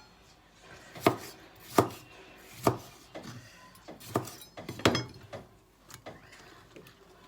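Kitchen knife chopping through a tomato onto a wooden cutting board: a series of sharp, irregular knocks, strongest in the first five seconds.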